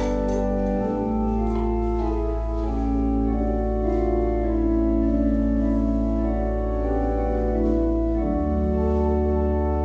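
Church organ playing slow, sustained chords, with a deep pedal bass note that changes about a second in and again near the end.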